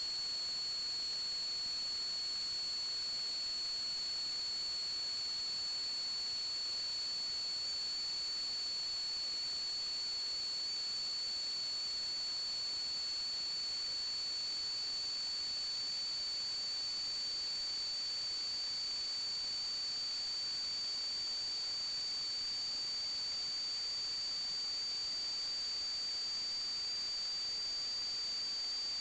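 Steady high-pitched whine with a fainter, higher tone above it over a constant hiss, holding the same pitch and level throughout.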